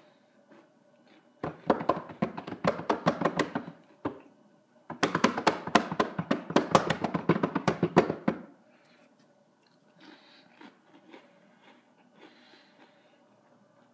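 Dry saltine crackers being crunched and chewed close to the microphone: two long bouts of rapid crackly crunching, starting about a second and a half in and again about five seconds in, then fainter chewing near the end.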